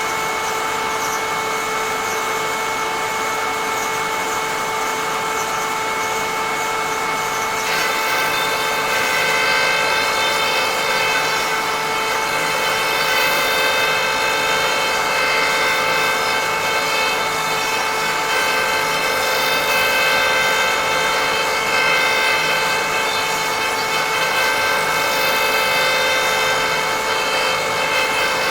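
A threading jig's high-speed cutter motor running steadily while cutting threads into a wooden box on a lathe. About eight seconds in, the sound grows a little louder and richer as the cutter bites into the wood.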